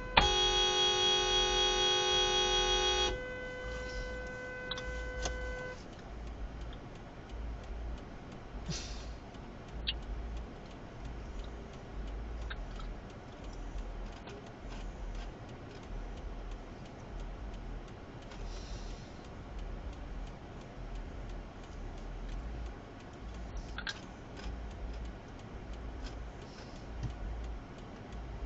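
A car horn blares continuously for about three seconds right at the start, over a second, quieter steady horn tone that stops about six seconds in. After that only a low rumble of vehicle and road noise remains, with a few faint clicks.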